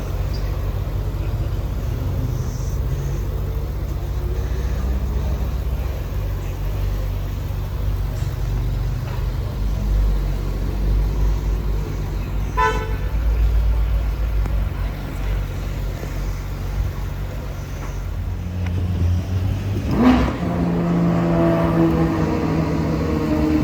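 Street traffic with vehicle engines running low and steady, and one short car-horn toot about halfway through. Near the end there is a sharp knock, and then a steadier, higher engine note joins.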